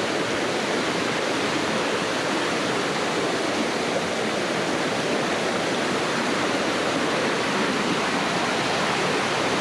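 Waterfall in heavy flow, its water crashing down in a steady, loud rush; the falls are swollen by more than 4 inches of rain.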